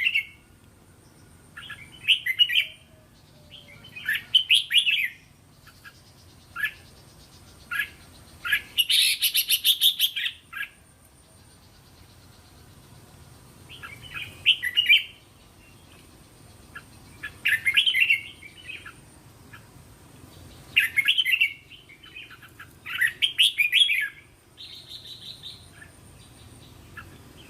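Red-whiskered bulbul singing about ten short, warbling song phrases, each about a second long, with pauses of one to three seconds between them. This is lure song of the kind played to caged bulbuls so that they sing back.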